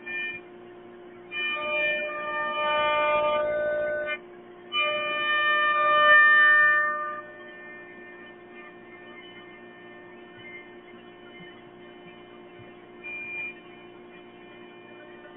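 CNC router running: a steady hum, with two loud passages of whining tones that change pitch in steps, from about a second in to four seconds and from about five to seven seconds in.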